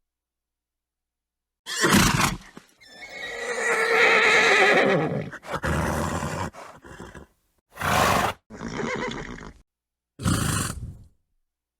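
A horse neighing: one long, wavering whinny about three seconds in, with several short, breathy snorts before and after it.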